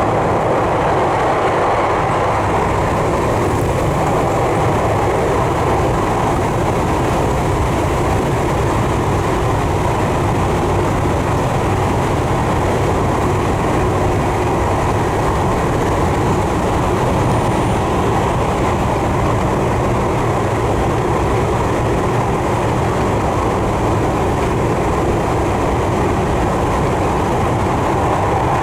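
Tokyu 3020 series electric train running at a steady speed, heard from inside the car: an even rumble of wheels on rail and running gear, with no braking or change in speed.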